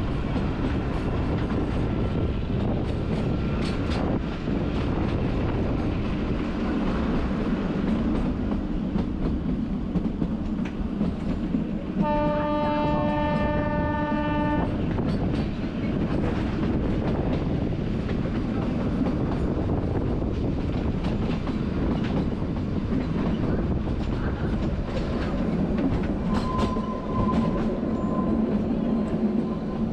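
Kalka–Shimla narrow-gauge toy train running, heard from on board: a steady rumble with clattering of the wheels on the rails. About twelve seconds in, the train's horn sounds one long blast lasting two to three seconds. A thin steady whine joins near the end.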